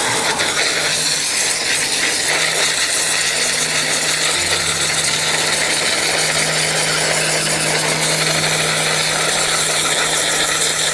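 Water from a hose spraying steadily onto a rainwater-tank strainer, washing out the residue it has caught, with a steady low hum beneath.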